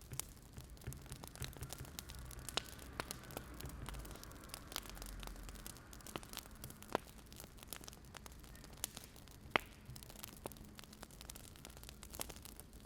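Burning firewood crackling, with irregular sharp pops scattered over a faint low hum.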